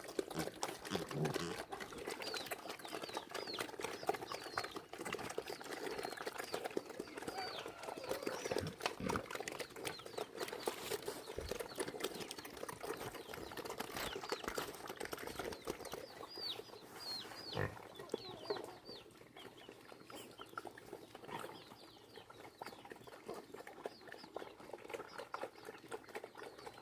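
Chickens clucking, with many short, high, falling chirps coming in clusters.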